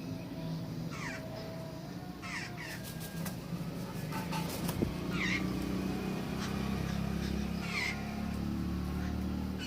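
Birds calling at a feeder: short, harsh calls, each falling in pitch, repeated every second or two over a steady low hum.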